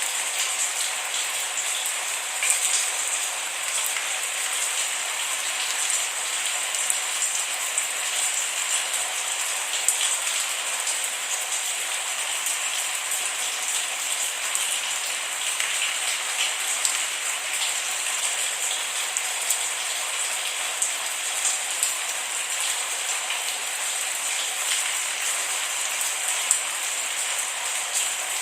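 Steady rain falling on a surface, an even hiss with scattered sharper drop ticks. No thunder.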